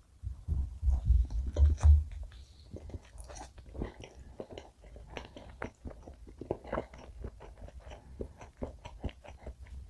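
A close-miked bite into soft chocolate castella topped with whipped cream, then steady chewing with many small, irregular wet mouth clicks. The loudest part is a few heavy low thumps in the first two seconds, during the bite.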